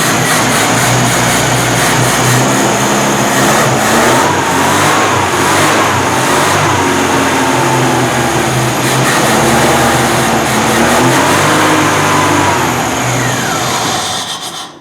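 Freshly overhauled UZAM 1.7 four-cylinder car engine running, its speed rising and falling as it is blipped. It idles slightly rough, which the mechanic puts down to spark plugs that need replacing. The sound cuts off suddenly near the end.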